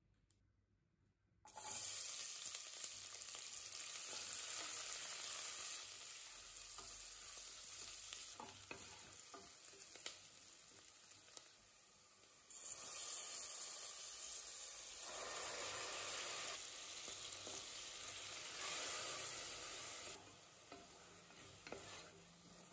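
Ghee and oil sizzling as onions fry in an aluminium pressure cooker; the sizzle starts suddenly about a second and a half in. It surges again about halfway through as chopped tomatoes go into the hot fat, with a few scrapes of a wooden spatula stirring the pan.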